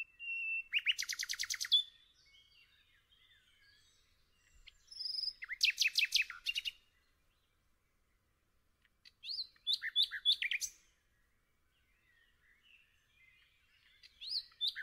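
A songbird singing in short phrases of rapid, high chirping notes. There are four phrases a few seconds apart, with quiet gaps between them.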